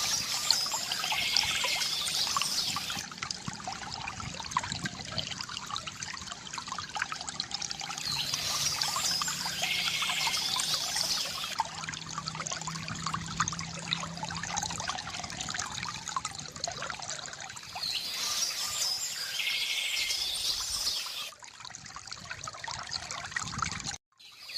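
Water trickling and pouring from a bamboo fountain, swelling louder and brighter about every nine seconds. The sound drops away briefly near the end.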